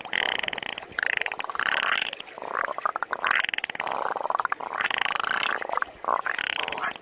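A person imitating a frog with their voice: a string of short, rattling croaks, about one and a half a second.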